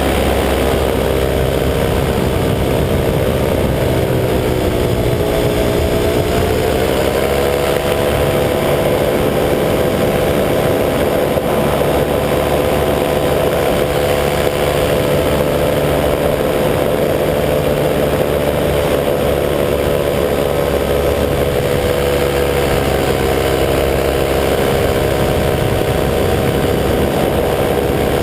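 185 cc EcXtreme paramotor's two-stroke engine running steadily in flight, its pitch dipping about five seconds in and climbing back a couple of seconds later, then easing down slightly later on.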